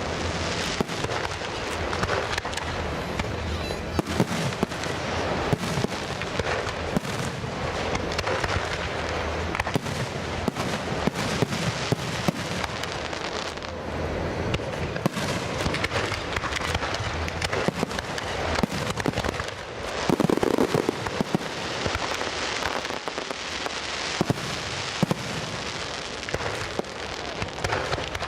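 Fireworks display: a dense, continuous stream of bangs and crackling bursts, several a second, with a louder stretch about twenty seconds in.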